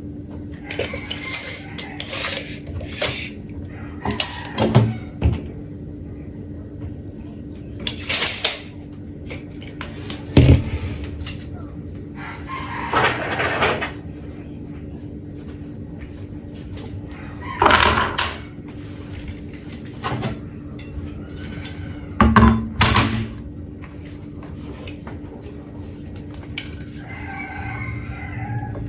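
Scattered knocks and clicks of tools and workpieces being handled, over a steady low hum.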